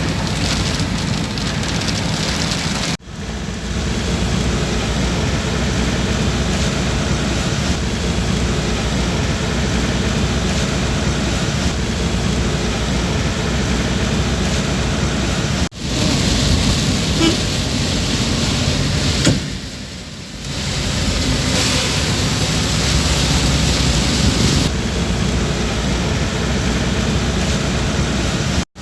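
Road traffic noise with occasional horn toots, in several shots joined by abrupt cuts about three seconds in, about sixteen seconds in and just before the end.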